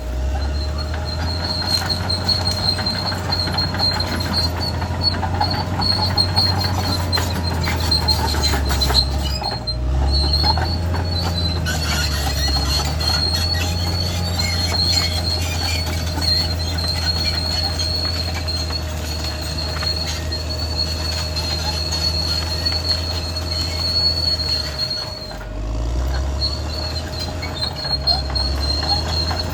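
Caterpillar D6R XL crawler bulldozer working: a steady diesel engine rumble under a high, continuous squeal and clatter from its steel tracks. The engine note dips briefly twice, about nine seconds in and again near twenty-five seconds.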